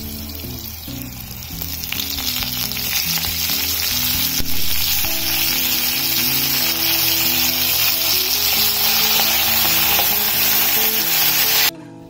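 Green chillies and cumin seeds sizzling in hot oil in a kadhai, with a spatula stirring. The sizzle grows louder and harsher a few seconds in as fresh curry leaves go into the oil, and it cuts off abruptly near the end.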